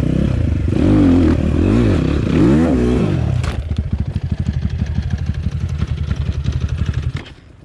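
Off-road enduro motorcycle engine revved up and down several times, then a sharp knock about three and a half seconds in. After that the engine pulses at low revs and cuts out about seven seconds in.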